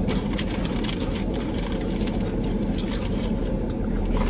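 Steady low hum of a car cabin with the vehicle running, with scattered short crisp crackles and clicks over it.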